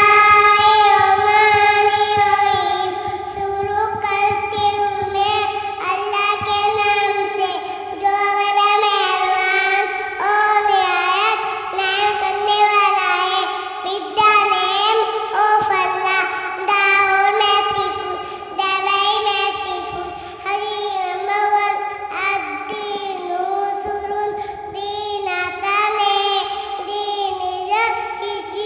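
A young girl's voice singing a hadith in a melodic, chant-like recitation, with long held notes.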